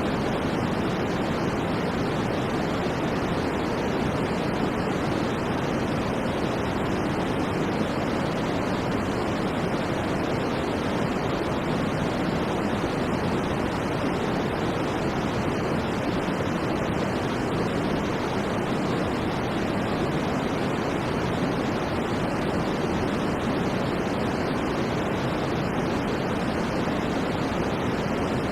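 Steady synthetic white noise for sleep: an even, unchanging hiss, fuller in the lows and mids than in the highs.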